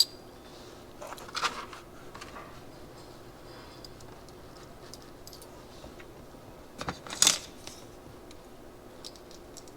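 A few small metallic clicks and clinks as carburetor parts and a small plate are handled and fitted, the loudest about seven seconds in, over a faint steady hum.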